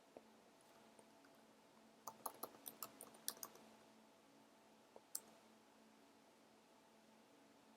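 Faint clicking at a computer: a quick run of about eight clicks a couple of seconds in, then two more about five seconds in, over a faint steady hum.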